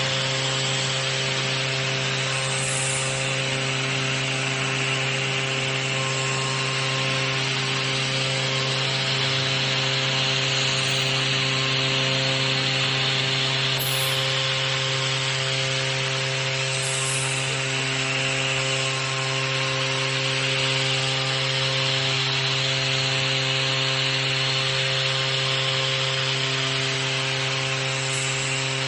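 Tomahawk Pro CNC machine cutting a prototype plate: a steady hum and whine from the running machine, over a hiss of cutting that slowly swells and eases every several seconds.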